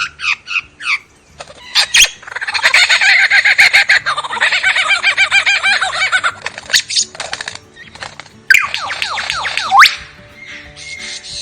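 Lyrebird singing a varied run of song: a few short chirps, then a long, dense, rapid chattering passage, a few sharp clicks, and a series of fast downward-sweeping whistles.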